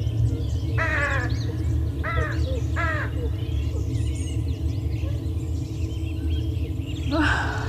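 Birds calling: three loud calls in the first three seconds and another near the end, over the faint chirping of small birds and a low steady hum.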